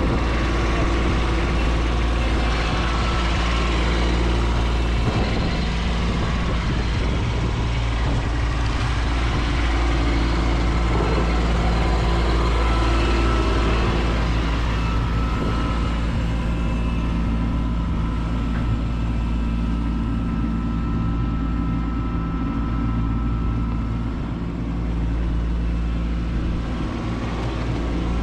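Kubota B2601 compact tractor's diesel engine running steadily, its note shifting slightly about halfway through.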